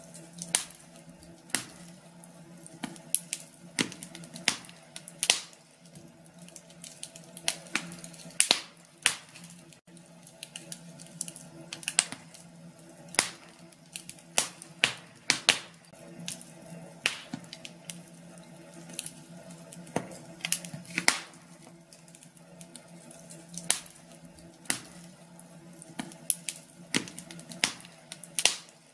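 Wood fire in a fireplace crackling: irregular sharp pops and snaps, sometimes several in quick succession, over a faint steady low hum.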